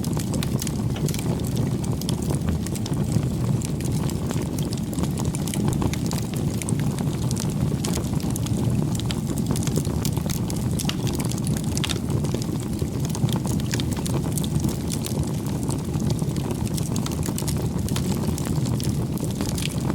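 Wood campfire burning: a steady low rumble of flames with frequent small, sharp crackles and pops throughout.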